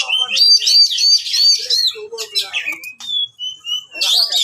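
Oriental magpie-robin (kacer) in full, agitated fighting song: a rapid run of repeated high up-and-down notes, then scratchy notes and a few short whistles, with another quick burst of notes near the end.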